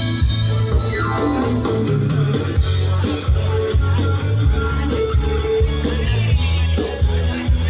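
Loud music with guitar and a heavy bass line on a steady beat, played through a large truck-mounted sound system.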